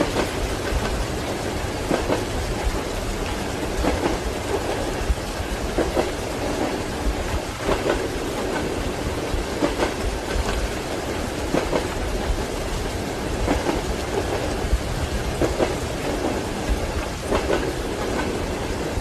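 Train wheels clacking over rail joints about every two seconds, over the steady rumble of a moving railway carriage, with rain falling.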